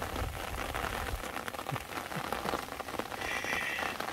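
Steady rain, a dense patter of drops. A low rumble stops about a second in, and a brief high-pitched call sounds near the end.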